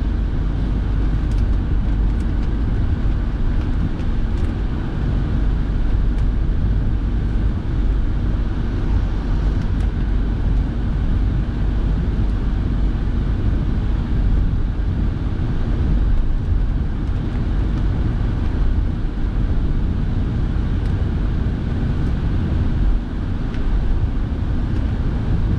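Steady road noise inside a moving car's cabin: low rumble of tyres and engine, with the heater fan blowing.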